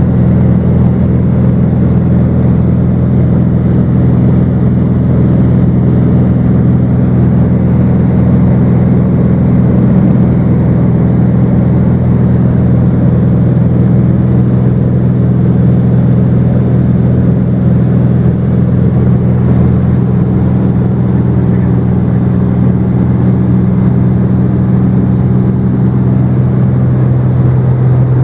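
Cessna 210's six-cylinder piston engine and propeller droning steadily in cruise flight, heard from inside the cabin as a loud, constant low hum.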